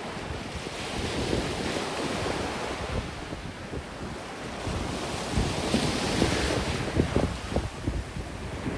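Sea waves washing onto a sandy beach under strong wind, with the wind buffeting the microphone. The surf hiss swells about a second in and again around six seconds, and the gusts grow stronger in the second half.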